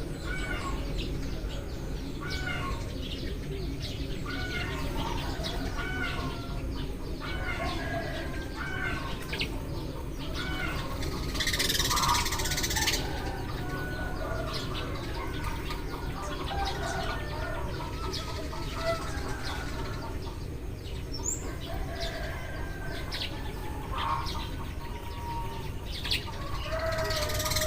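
A flock of Eurasian tree sparrows chirping, many short calls overlapping and repeating without pause, over a steady low background rumble. About twelve seconds in there is a brief hissing rush lasting around a second.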